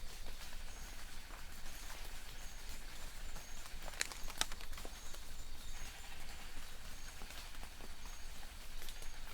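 Light rain falling in a forest: a steady hiss with scattered drops ticking and pattering on leaves. A distant bird repeats a short, high note about once a second.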